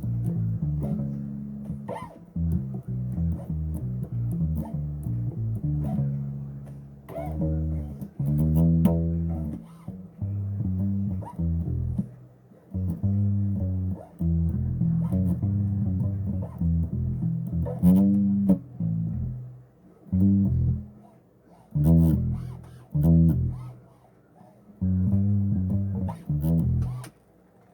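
Electric bass guitar played solo: a run of plucked notes in low register, some held and ringing, others short and muted, in phrases broken by brief pauses, with a few sharper, brighter notes that stand out.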